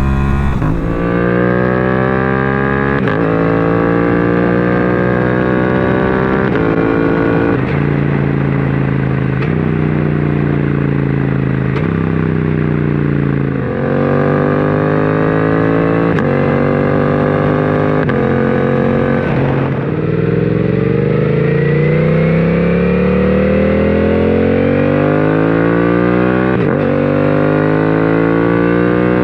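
Exhaust of a 2024 Suzuki GSX-8S, a 776 cc parallel twin, through a full M4 exhaust system under hard acceleration. The engine note climbs in pitch through each gear and drops sharply at each quick-shifter upshift, many times over. About twenty seconds in it falls away and then builds again in one long climb.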